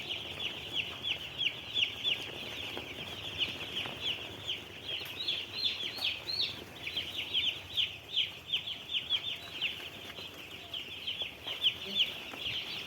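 A large flock of day-old broiler chicks peeping continuously, many short high chirps overlapping.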